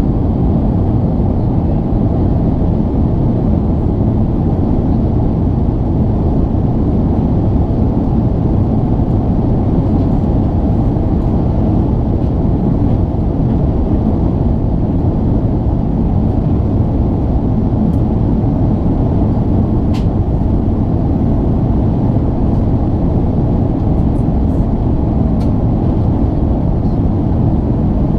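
Steady, loud cabin rumble of an Emirates Airbus A380-800 heard from a window seat: jet engine and airflow noise, even throughout. A few faint ticks sound near the end.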